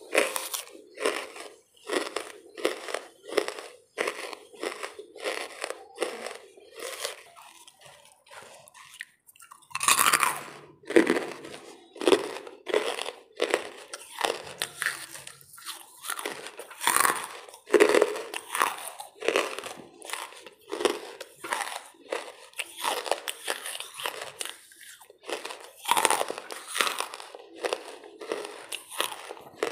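Lumps of charcoal being bitten and chewed close to the microphone: a steady run of crunches about two a second, with a few louder bites.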